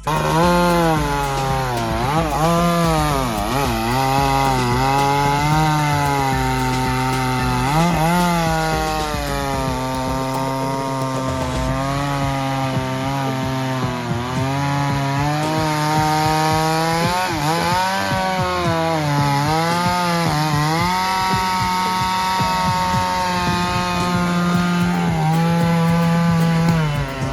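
Two-stroke chainsaw cutting through wood at high revs. Its engine note sags each time the chain bites under load and climbs back as it frees up, several times over.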